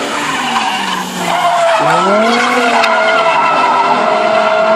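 BMW M6 drifting. The engine note drops, then revs sharply up about two seconds in and holds high, over continuous tyre screech.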